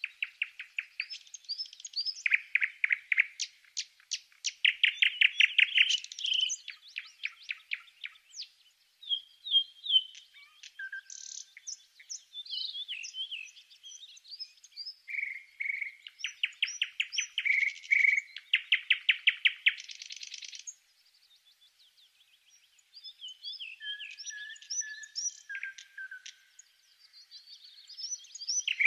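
A songbird singing: fast rattling trills alternating with quick chirps and short whistled notes, with a brief lull about two-thirds of the way through.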